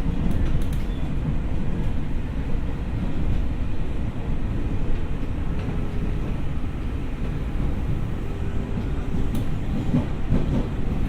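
Ex-Tokyo Metro 6000 series electric train running along the track, heard from inside the car: a steady low rumble of wheels and running gear, with a few faint clicks.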